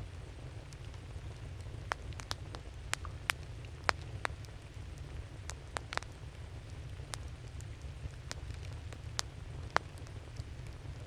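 Wood campfire crackling: irregular sharp pops and snaps, a dozen or so scattered unevenly, over a steady low rumble.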